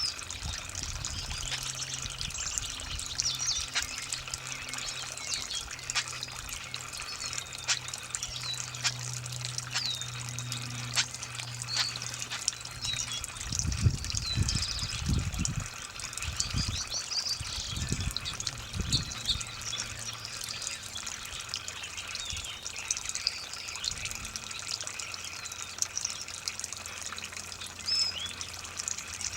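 Water trickling and running from a garden hose onto the ground, with small songbirds chirping throughout. A low hum is there for the first half, and a few low rumbles come through about halfway.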